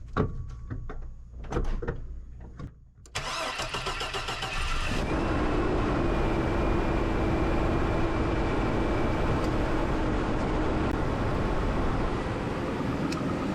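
A 2002 Chevy Blazer's 4.3L Vortec V6 cranks on the starter for a couple of seconds, catches, and settles into a steady idle. It is the first start after the engine has sat for about five months.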